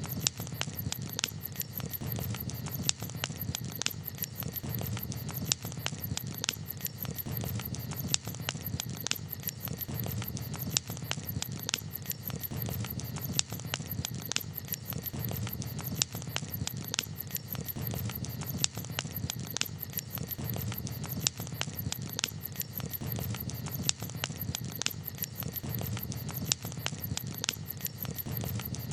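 Campfire crackling: a wood fire giving off frequent, irregular sharp pops and snaps over a steady low rumble.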